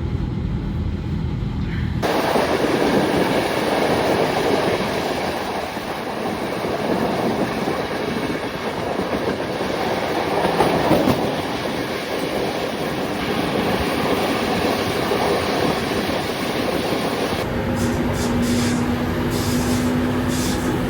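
Passenger train carriages rolling along the track at speed, with steady wheel-and-rail running noise. The sound changes abruptly about two seconds in and again near the end, where a steady hum and a few clicks come through.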